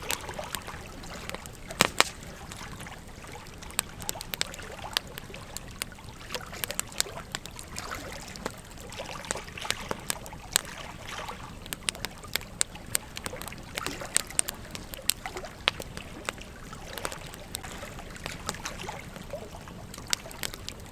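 Campfire crackling, with irregular sharp pops, two loud ones close together about two seconds in, over the steady babble of a gentle stream.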